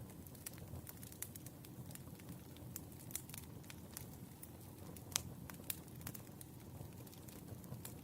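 Firewood burning: irregular crackles and pops over a low steady rumble of the fire, with two louder pops about five seconds in.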